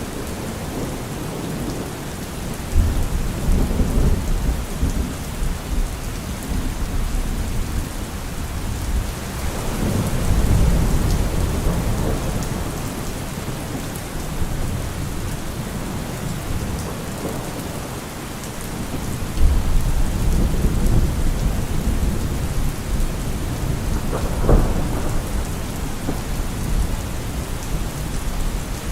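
Heavy rain falling on a car roof under continuous thunder. Low rolls of thunder swell about three seconds in, around ten seconds and again from about twenty seconds, with a sharper crack near twenty-five seconds.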